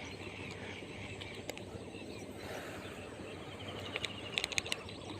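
Steady, faint outdoor background noise, with a few sharp clicks near the end.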